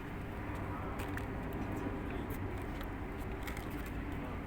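Steady outdoor background rumble with scattered faint clicks and ticks.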